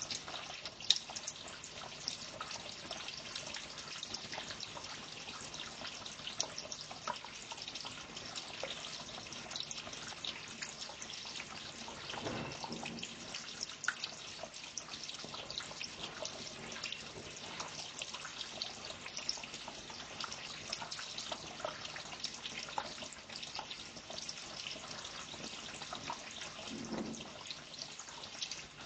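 Water trickling and dripping steadily, a dense patter of small drops.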